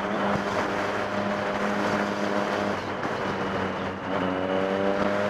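Motorcycle engine running at a steady pitch over wind and road noise, then a brief dip about four seconds in before the pitch climbs as it accelerates again.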